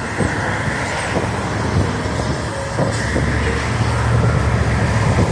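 Road traffic noise: a steady low engine and tyre rumble of passing vehicles, growing louder about three and a half seconds in.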